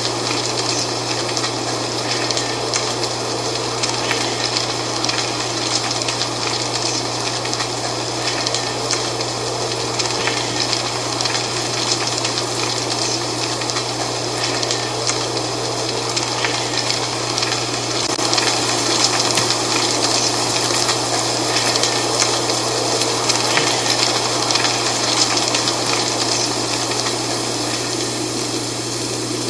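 Wind blowing through dry fall leaves, a steady rustling hiss full of fine crackles that swells a little past the middle. A steady low hum runs underneath.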